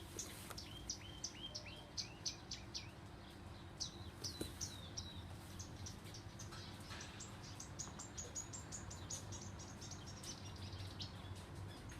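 A songbird singing. It starts with a run of high notes, each slurring downward, about three a second. After a short gap it goes into a faster stream of short, high chirps, over a faint steady background hum.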